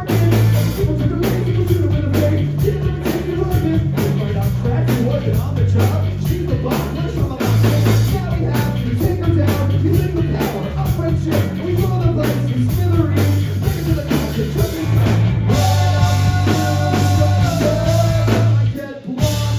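Live rock band playing a fast, loud song: drum kit and bass with some singing. The song stops on a final hit near the end.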